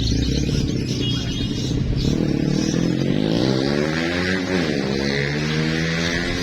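Motorcycle engine running, its pitch rising over a couple of seconds and then dropping back midway through, with birds singing faintly behind it.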